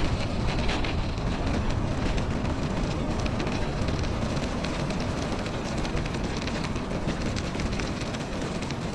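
Wind rumbling on the microphone over a steady crackle of bicycle tyres rolling on snow.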